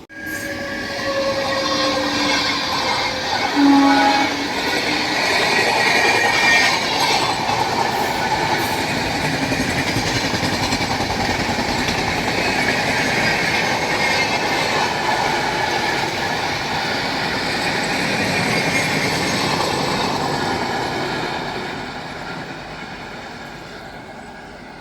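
Passenger train hauled by a WAP5 electric locomotive passing at speed: its horn sounds during the first four seconds, then the steady rush of wheels on the rails, which fades away over the last few seconds.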